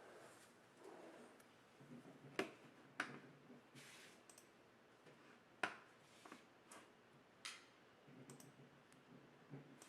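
Scattered sharp clicks and small taps over quiet room tone, with three louder clicks about two and a half, three and five and a half seconds in.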